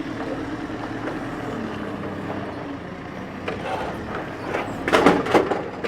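An engine idling steadily, with a cluster of louder clattering noises about five seconds in.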